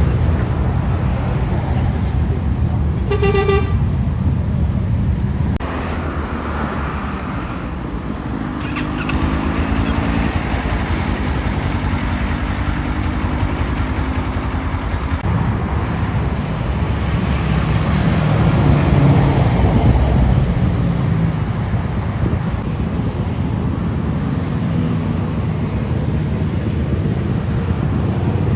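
Motorcycle engines running and passing by, with pitched engine notes that rise and fall. A short horn toot sounds about three seconds in.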